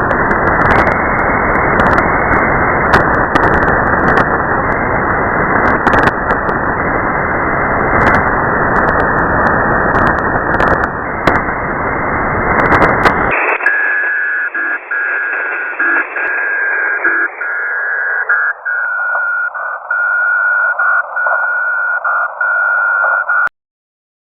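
Shortwave radio receiver output: loud static hiss with sharp crackles. About thirteen seconds in the hiss gives way to a narrower, thinner sound carrying a steady whistling tone with a fainter higher one, broken by brief dropouts. The sound cuts off shortly before the end.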